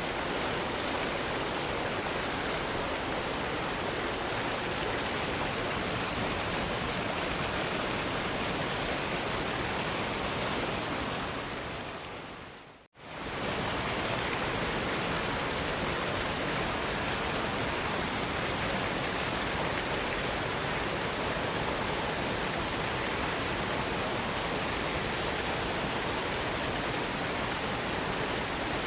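Steady, even rush of a waterfall's falling water, fading briefly to silence about thirteen seconds in and then fading back up.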